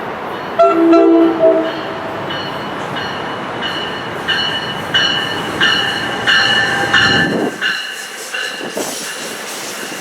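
A train horn sounds one short chord about half a second in. A passing train follows, its wheels squealing in regular pulses about every two-thirds of a second over a low rumble that cuts off sharply a little after seven seconds.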